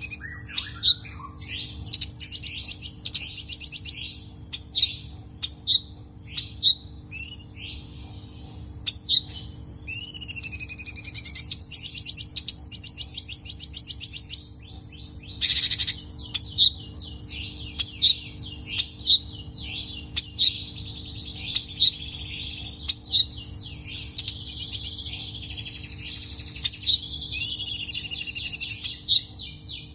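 Cungko kepala abu songbird singing continuously: a dense, varied song of sharp chirps, rapid trills and repeated whistled phrases with almost no pauses, over a faint steady low hum.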